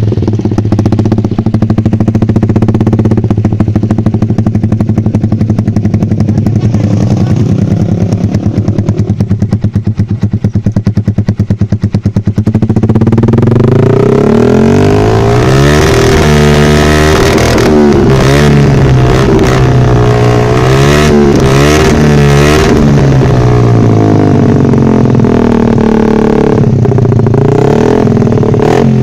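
Yamaha Jupiter MX 135's single-cylinder four-stroke engine breathing through a knock-off Proliner TR1 aftermarket exhaust, idling steadily for about twelve seconds and then revved again and again in rising and falling blips. The owner says the exhaust leaks at its joint because the pipe sections are not pushed fully together.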